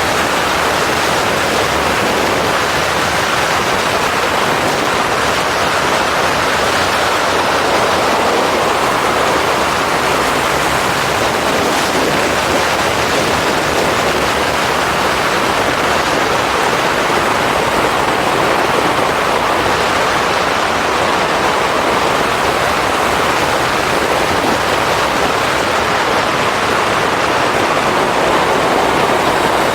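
Steady, loud wind rush on the microphone of a camera riding on a moving motorcycle, an even roar with no clear engine note above it.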